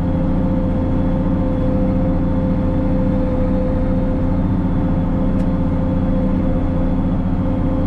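Case 2670 tractor's diesel engine running steadily under load while pulling a disc chisel through the soil, with a steady whine over the engine drone.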